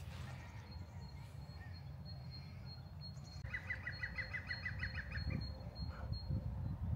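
A small songbird sings a fast trill of about a dozen identical notes, lasting just over a second, about halfway through. Under it runs a steady low rumble, and a thin high steady tone holds for most of the time.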